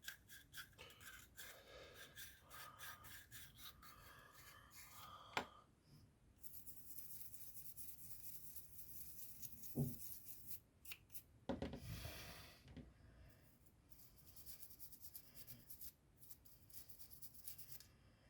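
Faint rubbing and scraping of small parts, then a can of WD-40 spraying in a long hiss of about four seconds and a second short burst, to loosen rust in the seized pump. The rubbing strokes come back near the end.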